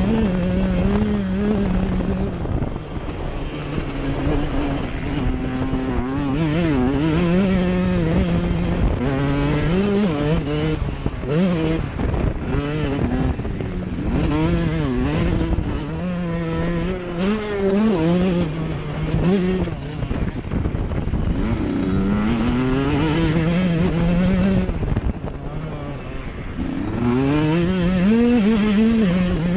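Motocross bike engines revving hard, the pitch climbing and dropping again and again as riders work the throttle and shift gears.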